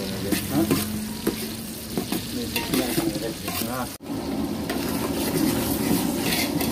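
Food frying in a pan while being stirred, with irregular scrapes from the stirring. About four seconds in the sound cuts off abruptly and picks up again as a steadier sizzle.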